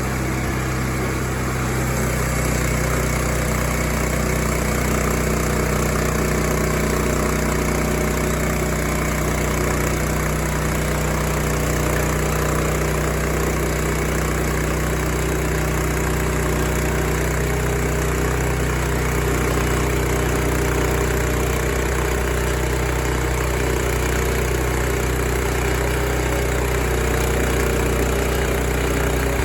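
Sawmill engine running at a steady speed, with no change in load or pitch throughout.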